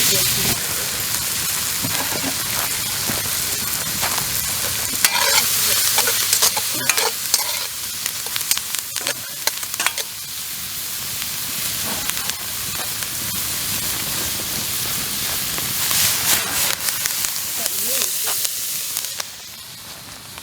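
Food sizzling and frying in a hot, thin wok over campfire coals, with the clicks and scrapes of a utensil stirring it. The sizzle drops away near the end.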